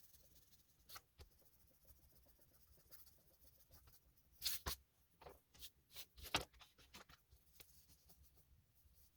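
Oil pastel rubbed onto paper in short scratchy strokes, faint, with a run of louder strokes in the middle.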